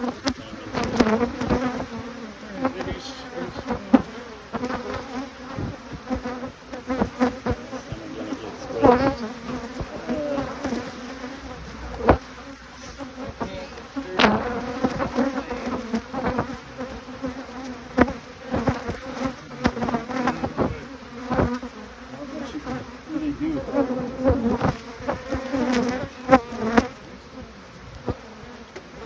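Honey bees buzzing around an open hive: a steady, wavering hum that bends in pitch as bees fly close past, with frequent short, sharp clicks and knocks throughout.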